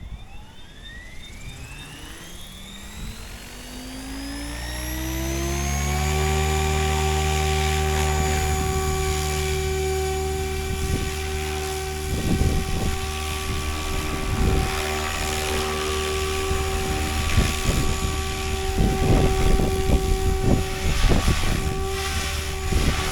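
Electric RC helicopter spooling up: the motor and rotor whine rises steadily in pitch for about six seconds, then holds at full head speed. From about twelve seconds in, uneven rushing rotor noise joins the steady whine.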